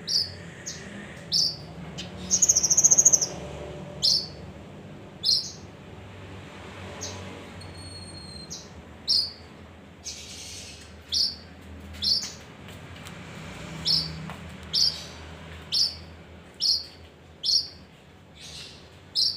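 Male kinoi songbird calling: short, sharp, high chirps repeated roughly once a second, with one louder buzzy trill near the start. A faint steady low hum lies underneath.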